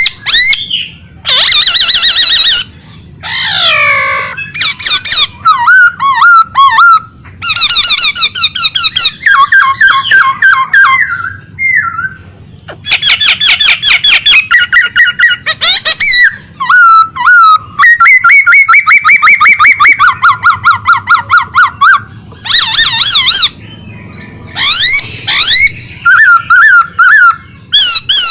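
Caged songbird singing loudly and almost without pause, in rapid varied phrases of fast trills, quick repeated notes and sliding whistles: a bird in full song.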